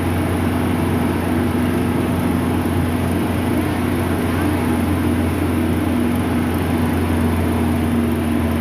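A motor running steadily with an even, unbroken hum.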